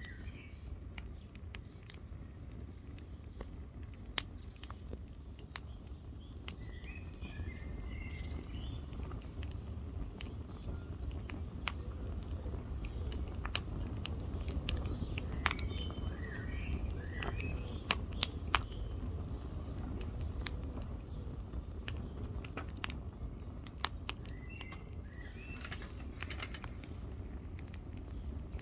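Wood campfire crackling, with sharp pops scattered throughout over a low steady rumble. A bird chirps in short phrases a few times.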